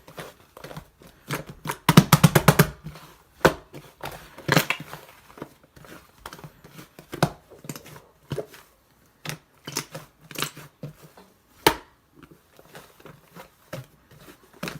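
Irregular clicks, taps and crinkles, some in quick runs, with short pauses between them: small objects being handled.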